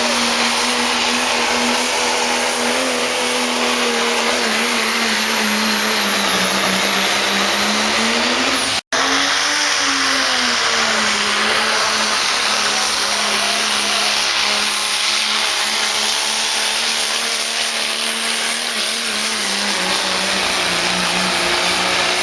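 Diesel pickup truck pulling a sled with its engine held at high, steady revs, loud, with a faint high whistle over it; the pitch sags and recovers. The sound cuts out for an instant about nine seconds in and picks up again at a similar pitch.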